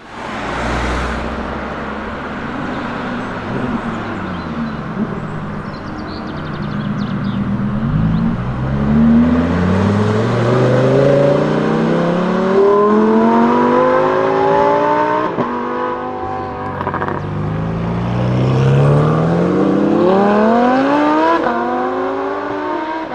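Lamborghini Huracán STO's naturally aspirated V10 under hard acceleration. Its pitch climbs steadily from about eight seconds in, with quick upshifts at about fifteen and twenty-one seconds, each dropping the pitch before it climbs again.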